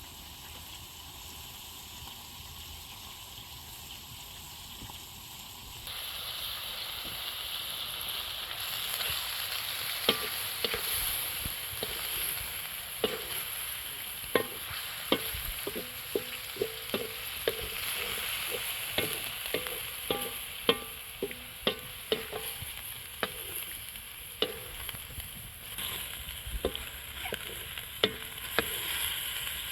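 Food frying and sizzling in a pan, the sizzle getting louder about six seconds in. From about ten seconds on, a spoon knocks and scrapes against the pan again and again as the food is stirred.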